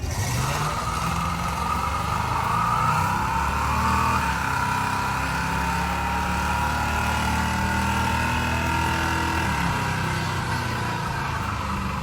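Chevrolet 388 stroker V8 in a 1968 Camaro, running steadily, with a high whine over the engine note.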